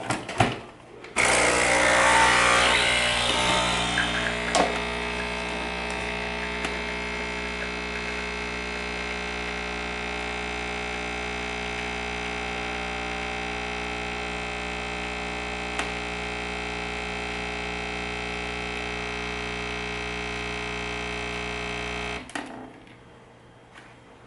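A few clicks as the capsule goes in and the machine is closed, then a Nespresso Original Line machine's pump starts, with extra hiss for the first few seconds, and settles into a steady buzzing hum while it brews coffee through a SealPod stainless steel reusable capsule. It cuts off suddenly after about 21 seconds, when the shot is done.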